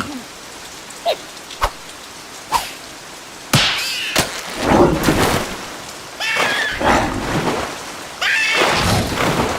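Cartoon rain falling steadily, with a few single drops landing in the first seconds and a loud sudden crash about three and a half seconds in. Wavering, squeaky cartoon-character vocal noises come over the rain twice in the second half.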